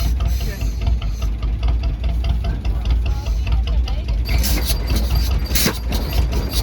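Antique engine with exposed rocker arms running steadily just after a hard start, a regular beat of firing strokes over a deep rumble. A louder hissing noise joins about four seconds in.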